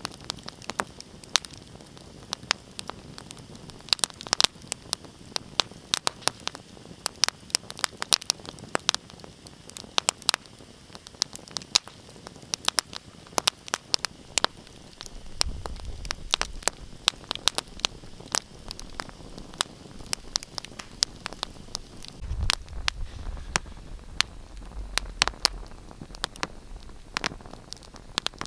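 Wood fire crackling in a fireplace: irregular sharp pops and snaps over a soft steady hiss. A low rumble joins about halfway through and again near the end.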